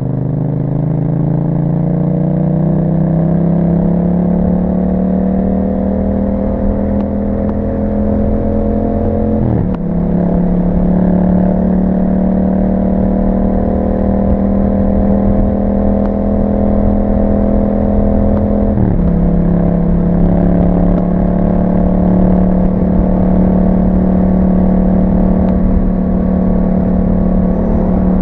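Yamaha MT-07's 689 cc parallel-twin engine through an Akrapovic exhaust, pulling under steady acceleration. The engine note climbs slowly and drops sharply at two upshifts, about nine and nineteen seconds in.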